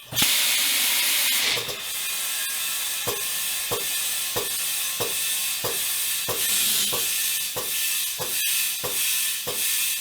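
Compressed air hissing from a tire-changer's bead-seating jets into a truck tire that has not yet sealed on its rim. It starts as a louder blast for about the first second and a half, then settles into a steady hiss with a regular knocking about one and a half times a second.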